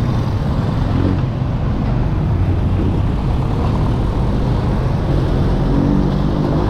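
Motorcycle running while being ridden, a steady low engine drone mixed with road and wind noise.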